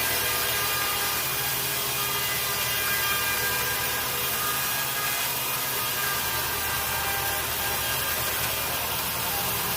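Sawmill saw cutting through a teak log: a steady whine over a hiss, the whine drifting slightly in pitch, with a low machine hum underneath.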